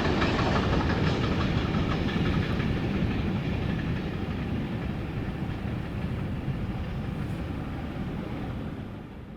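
Military train rolling past on the rails, wagons and wheels running steadily, gradually growing fainter.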